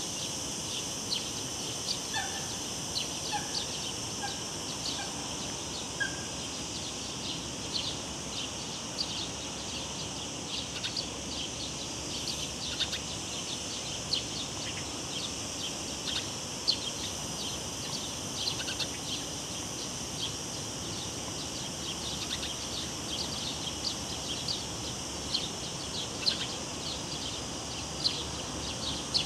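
Cicadas buzzing steadily, with rapid irregular ticking, over the even rush of river water. A bird gives a short series of brief notes between about two and six seconds in.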